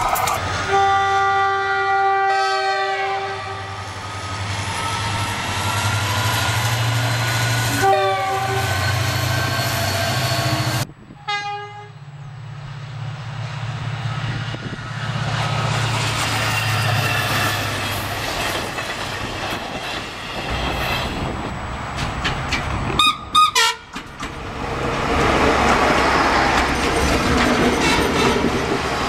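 Trains passing with their horns sounding: a diesel locomotive's horn chord that drops in pitch as it goes by, followed by the engine's low rumble. Later come short horn toots and the rushing wheel noise of a passenger train going past close by.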